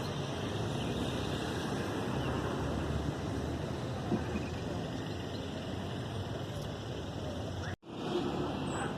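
Steady outdoor background rumble and hiss with no distinct event. It cuts out for an instant near the end and then resumes.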